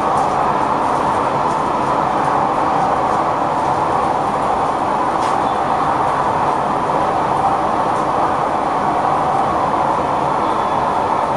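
Steady running noise inside the driver's cab of an NS Sprinter Lighttrain electric multiple unit travelling along the track at speed, with a single short click about halfway through.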